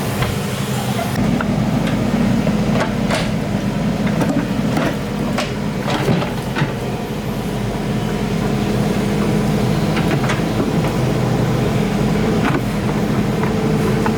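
Excavator's diesel engine running steadily under load, with a number of sharp knocks and clanks scattered through, from the machine digging.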